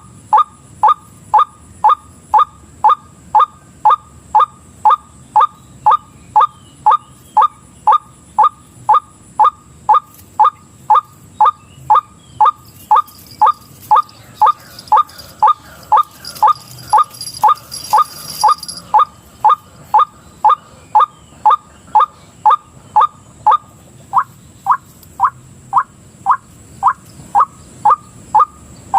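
White-breasted waterhen call, a short falling note repeated with machine-like regularity about twice a second, played as a lure to draw waterhens to a snare.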